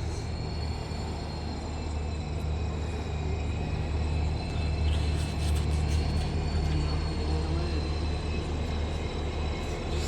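Railway locomotive running with a steady low rumble that grows a little louder midway, and a faint steady high whine above it.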